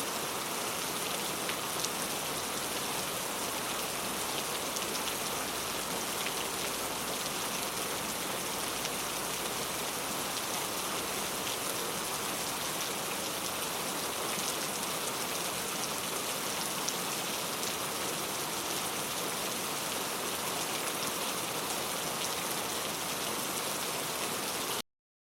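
Steady rain falling and pattering on surfaces, an even hiss without thunder, which cuts off suddenly near the end.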